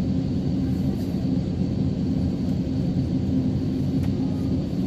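Steady low rumble in the cabin of an Airbus A350-900 on the ground after landing, the engines and air conditioning running.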